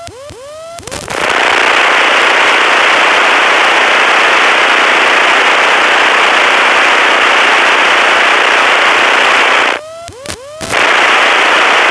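Loud, steady hiss of radio static, cut off in pitch as through an aircraft radio or headset. It breaks off for about a second near the end, and a run of quick, repeating rising chirps is heard there and at the very start.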